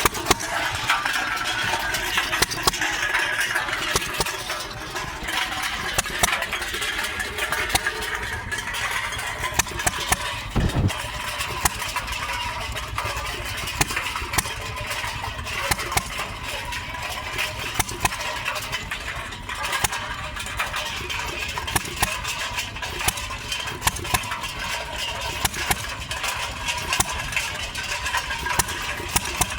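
Stover hit-and-miss engine running alongside a concrete mixer, with soda cans tumbling in the mixer drum and making a constant irregular clatter.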